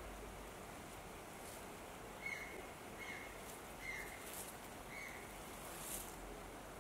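A bird calling four times, short high notes that each dip at the end, about a second apart, over a faint steady outdoor hiss.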